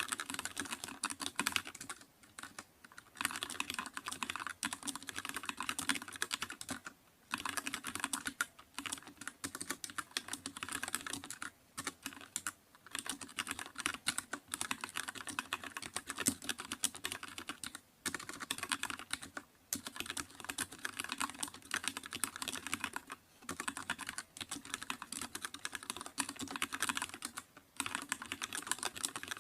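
Continuous typing on a computer keyboard: fast runs of key clicks, broken by short pauses every few seconds.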